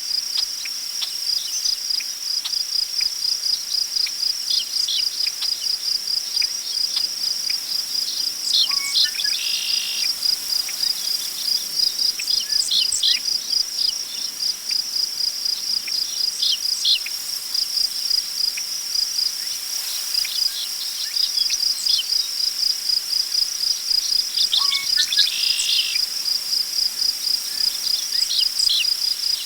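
Crickets chirping in a steady, evenly pulsing high-pitched trill, with birds calling and singing over it in short notes. A brief buzzy bird song comes twice, about fifteen seconds apart.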